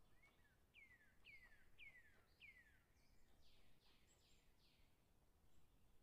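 Faint bird calls: four clear whistled notes, each falling in pitch, about half a second apart, followed by four quicker, harsher notes.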